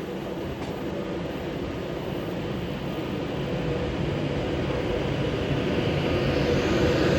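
Electric Class 390 Pendolino train pulling away and gathering speed. Its rail and running noise, with a faint steady hum, grows steadily louder as it comes closer.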